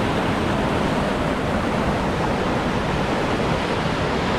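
A steady, even rushing noise with no rhythm or tone.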